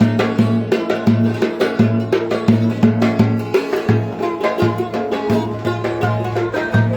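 Turkish folk dance tune (oyun havası) of the Ereğli–Alaplı style, played on a melody instrument over a steady, even drum beat.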